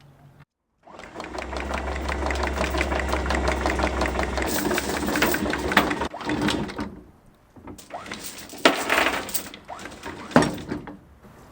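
A machine running with a fast, even clatter over a low hum for about five seconds, then a few separate sharp knocks.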